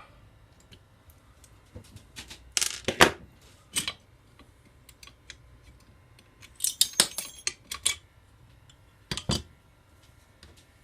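Small metal parts and hand tools clicking and clinking as they are handled on a workbench, in short clusters: around three seconds in, around seven seconds in with some brief metallic ringing, and once more near nine seconds.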